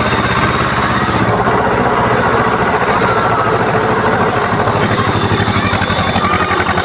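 Tractor engine running steadily, with an even, rapid pulsing beat.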